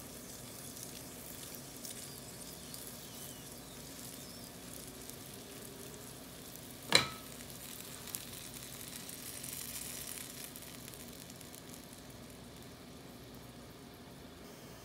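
Ghee sizzling under a stuffed paratha on a hot nonstick griddle, a steady frying hiss. A single sharp click about seven seconds in is the loudest sound, with a fainter one a second later.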